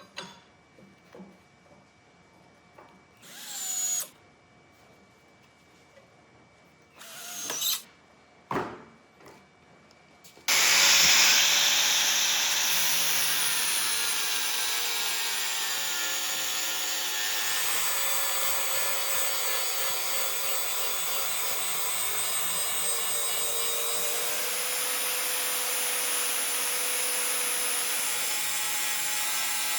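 Electric power grinder working a steel blade. Three brief bursts come first, then the grinder comes on hard about ten seconds in and runs steadily under load.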